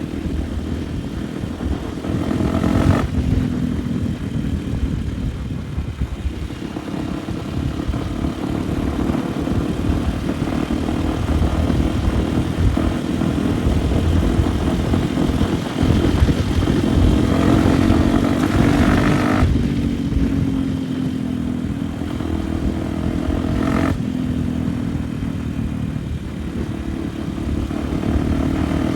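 Honda Tornado enduro motorcycle's single-cylinder engine running under way off-road, its revs rising and falling with the throttle. The revs build for several seconds past the middle, then drop suddenly.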